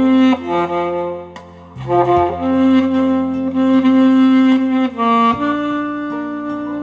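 Alto saxophone playing a slow, lyrical melody in long held notes over a recorded accompaniment with a bass line, pausing briefly between phrases about a second and a half in.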